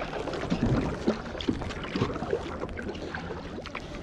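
A kayak paddle dipping and splashing in the water, with irregular small knocks.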